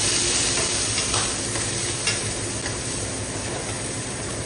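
Fish cake pieces sizzling in hot oil in a stainless steel wok, the sizzle strongest at first and dying down after a couple of seconds. A metal spatula scrapes and taps the pan a few times.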